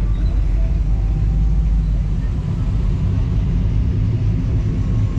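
Steady, loud low rumble of a car engine and road noise.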